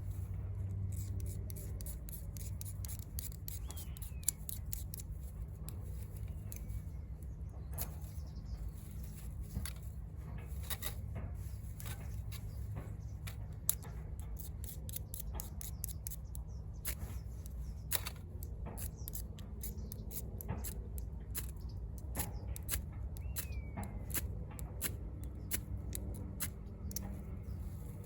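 Small wood fire crackling in a VARGO Hexagon wood stove: irregular sharp pops and snaps of burning twigs, several a second, over a steady low rumble.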